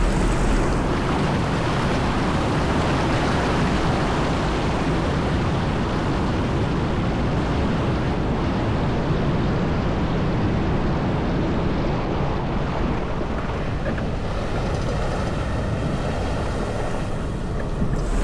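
Off-road 4x4 driving through water, with a steady rush and splash of water over the sound of the vehicle.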